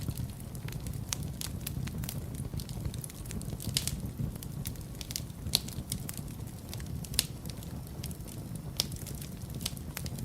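Wood fire burning in a fireplace: a steady low rumble of the flames with irregular sharp crackles and pops, a few louder pops standing out.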